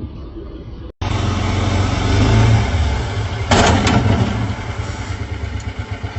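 Motorboat engine running loud under a rush of wind and water noise, starting abruptly about a second in, with a brief louder burst of noise around three and a half seconds in.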